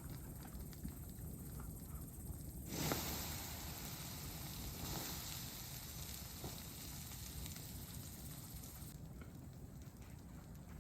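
Campfire of damp pine being doused with water: a strong steam hiss starts abruptly about three seconds in and dies down after about six seconds.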